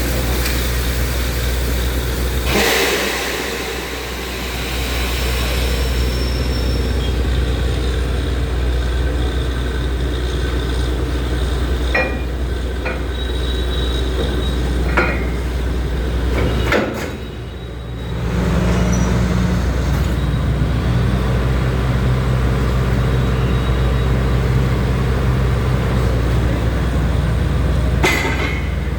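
Borewell drilling rig's engine running steadily under load. The drone drops away briefly a little past halfway, then picks up again with a changed pitch. A few sharp metallic knocks sound in the middle.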